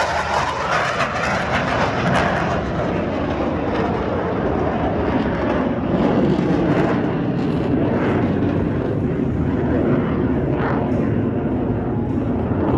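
Jet engine noise from Blue Angels F/A-18 Super Hornets in flight: a loud, steady rush without separate bangs or pauses.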